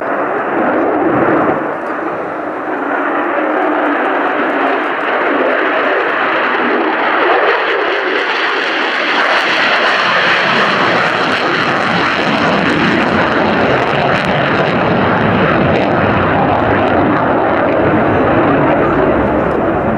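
Jet engine of an RAF F-35B Lightning II during an airshow display, a loud continuous noise with no breaks. From about halfway through, deeper tones fill in beneath it as the sound grows heavier.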